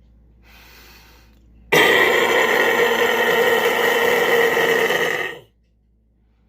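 Extreme-metal harsh vocal: a distorted scream held at a steady pitch for about three and a half seconds, starting abruptly a couple of seconds in and cutting off sharply.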